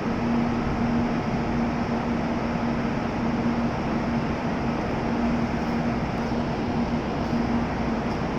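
Steady hum of a stationary N700 series Shinkansen train at the platform, its onboard equipment running with one held low tone over an even noise.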